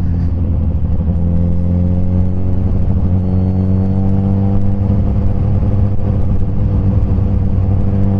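Suzuki GSX-S1000's inline-four engine, on a remapped ECU, running through a Firetong Willy Made aftermarket exhaust while the bike cruises. The engine note rises a little in pitch about a second in and then holds steady.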